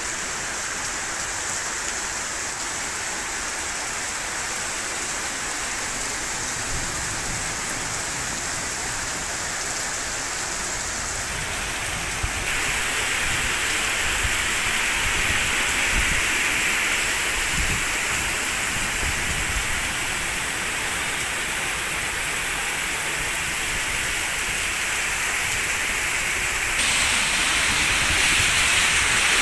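Heavy rain falling on a city street, a steady hiss, with cars passing and their tyres splashing through standing water. It gets louder and brighter about twelve seconds in, and again near the end.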